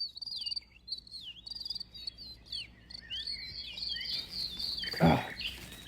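Bird song: quick, high whistled notes repeated over and over, many sliding down in pitch, with a short loud thump about five seconds in.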